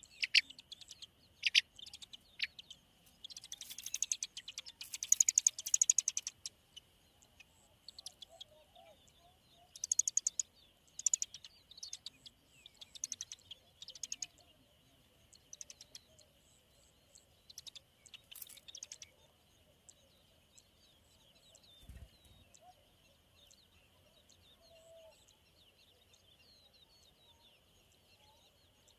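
Bird chirping at a nest where a large nestling is being fed: clusters of rapid, sharp, high-pitched calls, densest about four to six seconds in and again around ten to fourteen seconds, thinning out after about nineteen seconds. A faint steady high tone runs underneath, and there is a single soft low thump about twenty-two seconds in.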